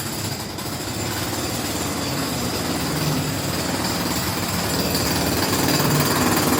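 Loud city street noise: a dense mechanical rattle and rumble that grows louder toward the end.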